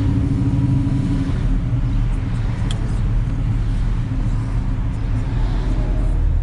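Restomod 1970 Chevrolet El Camino driving, with a steady low engine rumble and road noise. A higher hum fades out about a second in.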